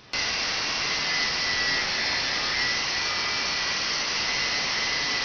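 Abrasive cut-off disc grinding steadily through a 70 mm cold-rolled steel round bar, a dense even grinding noise with a faint steady whine, starting and stopping abruptly.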